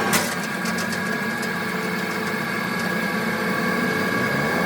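An engine idling steadily, with a short click just after the start.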